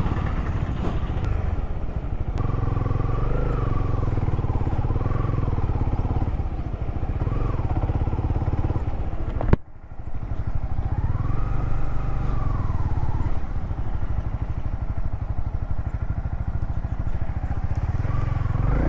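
Motorcycle engine running steadily under way, a continuous low rumble. About halfway through there is a sharp click and a momentary gap in the sound.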